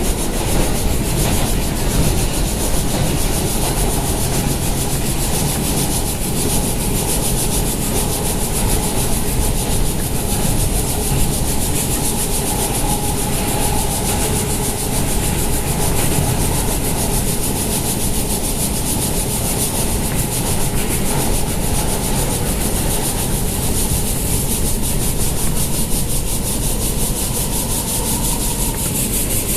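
NYC Subway R160 car running on welded rail: a steady rumble and hiss of wheels on track, even in level throughout.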